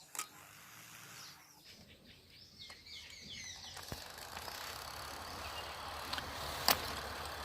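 A few faint bird chirps, then a steady rushing noise that builds from about three and a half seconds in, with a few sharp clicks.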